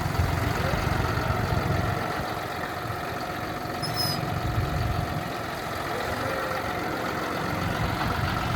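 John Deere 5055E tractor's diesel engine idling steadily.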